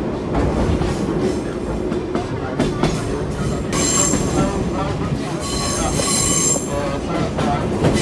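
Sightseeing trolley train running along a curving track, heard from an open-sided car: a steady rumble of wheels on rails, with a high-pitched wheel squeal from about four to nearly seven seconds in as the train rounds the bend.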